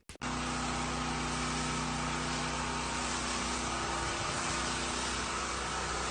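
A machine running steadily, an even rushing noise over a low hum, starting abruptly just after the beginning.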